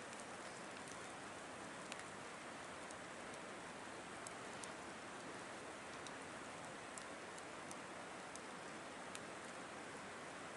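Wood campfire burning: a steady hiss with scattered sharp crackles and pops, roughly one a second.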